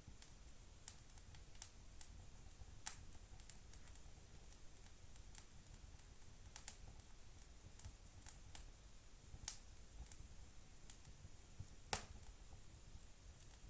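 Wood fire in a fireplace crackling faintly, with sparse, irregular sharp pops and one louder pop near the end.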